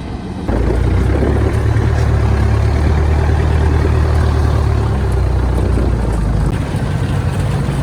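Heavy diesel farm machine engine running close by. Its steady low drone starts loud about half a second in and eases off slightly near the end.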